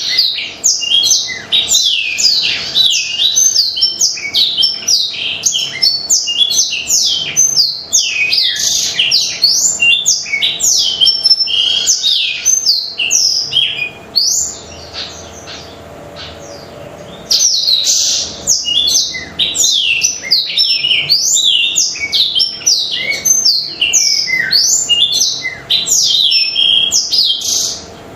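Black-throated canary (blackthroat) singing a fast, continuous song of high chirps and quick sweeping whistles; it breaks off for about three seconds midway, then resumes.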